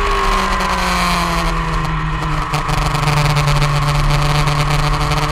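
Motorcycle engine heard from onboard, its pitch falling as the bike slows into a corner, then holding a steady lower note, with rapid buffeting noise over it.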